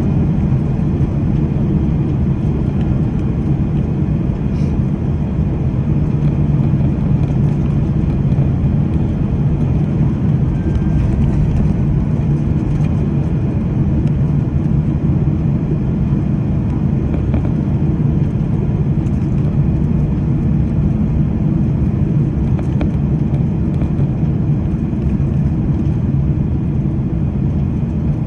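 Steady cabin noise inside a Boeing 767-300ER airliner on its landing approach: an even, low rumble of engines and airflow, unchanging throughout.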